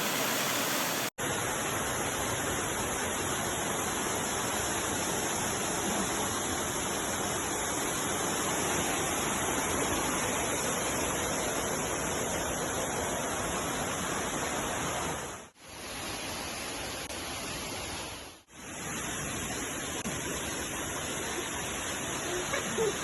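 Kembang Soka waterfall: a steady rush of falling water that briefly drops away twice, about two-thirds of the way through.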